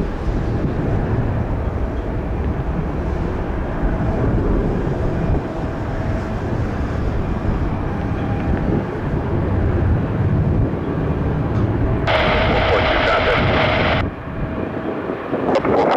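Jet airliner engines, a Mitsubishi CRJ-900 on arrival, heard as a steady low rumble with a faint whine, mixed with wind buffeting the microphone. About twelve seconds in, a two-second burst of radio static starts and stops abruptly.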